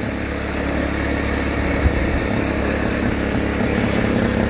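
10 hp Kohler single-cylinder engine of an old Case yard tractor running hard under full throttle as the tractor is driven, getting slightly louder as it goes, with one brief sharp tick about two seconds in.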